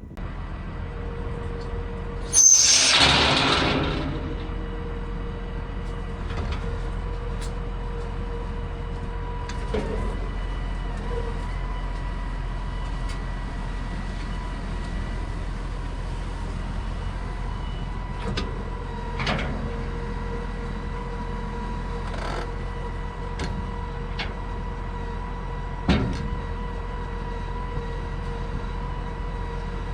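A vehicle engine running steadily, with a steady whine over it. About two and a half seconds in, a loud hiss lasts roughly a second and a half. A few knocks and clunks come later, the strongest near the end.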